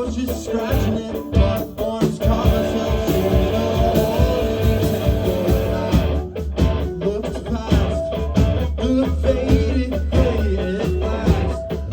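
Live rock band playing: electric guitar, bass and drums, loud and dense, recorded from the audience.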